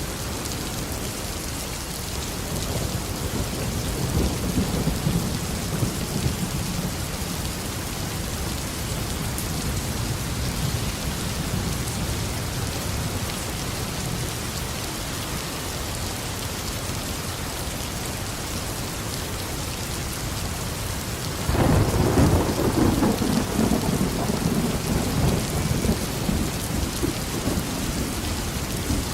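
Steady rain falling through a tropical thunderstorm. A low thunder rumble swells a few seconds in and fades; about two-thirds of the way through a louder thunderclap breaks in suddenly and rumbles on.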